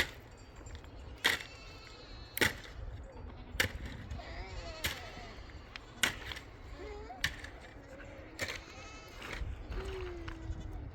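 Sheep or goats of a herd bleating, with wavering calls and one gliding call near the end. Over them comes a run of sharp knocks, about one every 1.2 seconds, which are the loudest sounds, with a steady low rumble underneath.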